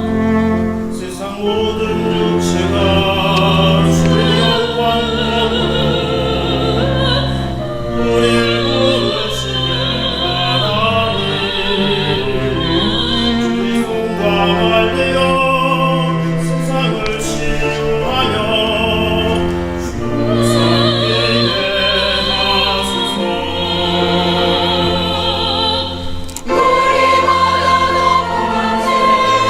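Choir singing a sacred anthem with vibrato over long held low accompaniment notes. Near the end a steady high held instrumental note comes in.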